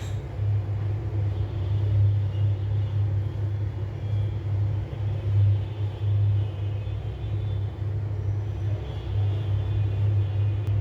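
A steady low rumbling hum that keeps on without a break.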